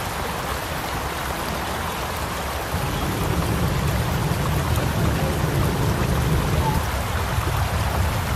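Steady rushing water, an even hiss that grows a little fuller and lower about three seconds in.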